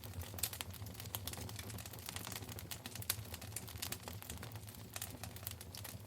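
Wood fire in a fireplace crackling: many small, irregular sharp pops and snaps, with a few louder ones, over a low steady rumble.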